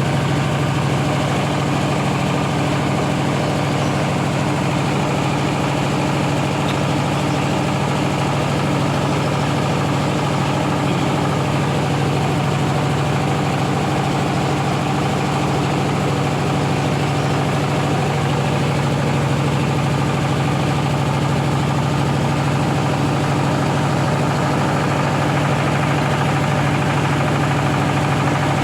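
Rice milling machine running steadily: a constant loud mechanical drone with a strong low hum and a hiss of grain and machinery over it, unchanging throughout.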